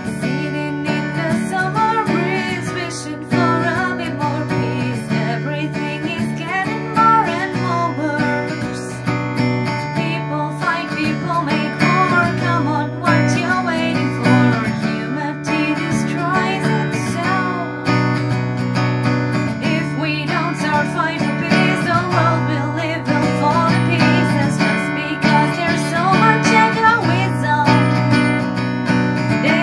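Acoustic guitar strummed in steady chords, with a woman singing a melody over it.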